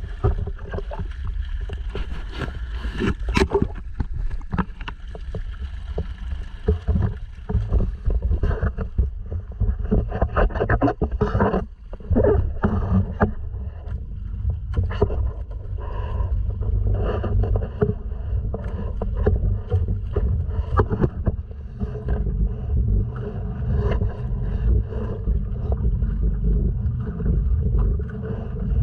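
Sea kayak under way on open water: a steady low rumble of wind and water on the microphone, broken by frequent irregular splashes and knocks against the hull.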